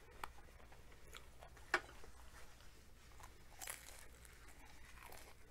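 Faint biting and chewing of a crunchy breaded fried chicken tender, with a single sharp click a little under two seconds in.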